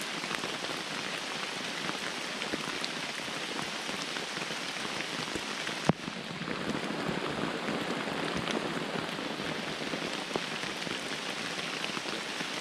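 Heavy rain falling steadily on the forest floor and camp, with a single sharp tap about six seconds in.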